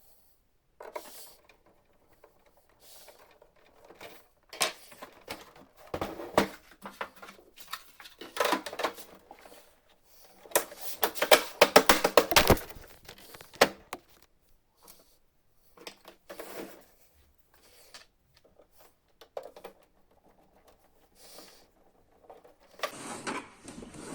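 Plastic printer casing panels being handled and snapped into place: irregular clicks, knocks and rattles, with a dense run of rattling clicks about halfway through.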